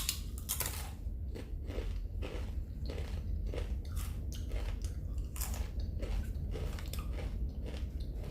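A person chewing a mouthful of a steak and cheese sub close to the microphone, with wet, crunchy chews about twice a second.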